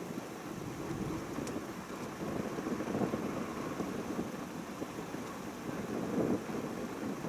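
Strong wind buffeting the camcorder's microphone: a steady rumbling noise that swells and eases with the gusts.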